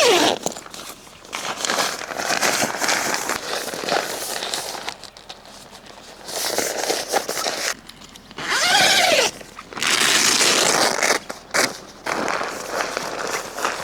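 Rustling and crinkling of material being handled, in irregular spells with short pauses. There is a brief rising-and-falling squeal about nine seconds in.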